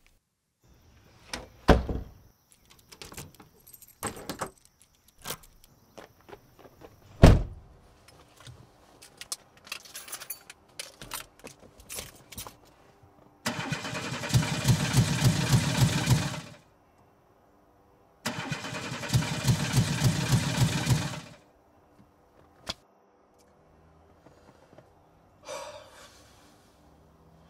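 A few sharp knocks and clinks, then a car's starter cranking the engine twice, about three seconds each, in a fast even churn that cuts off without the engine catching: the car fails to start.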